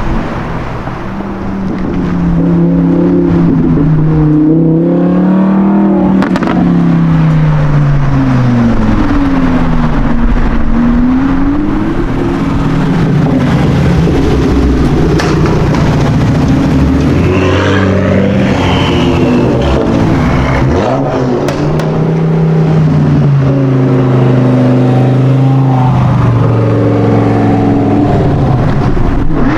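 Sports car engine accelerating hard, its pitch climbing and dropping again and again as it revs and shifts, loud throughout.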